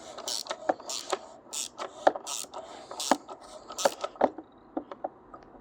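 Ratchet wrench clicking and scraping in irregular strokes as the oil filter housing cap is tightened down, quieter over the last second or so.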